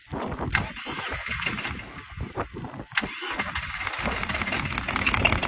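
A 2012 Arctic Cat 700 diesel ATV's twin-cylinder engine cranks unevenly on the starter at a cold start, then catches about four seconds in and keeps running.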